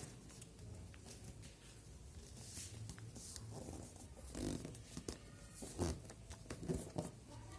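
Sheet of paper rustling and being creased by hand as it is folded, in short scattered strokes.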